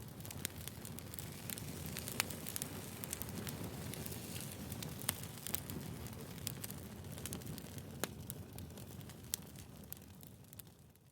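Wood fire crackling, with irregular sharp pops over a low steady rumble of burning logs. It fades out near the end.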